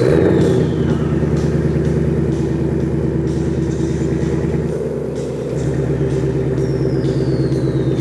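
2021 Ford Shelby GT500's supercharged 5.2-litre Predator V8 starting up with a brief flare of revs, then settling into a steady idle, with a slight dip about five seconds in.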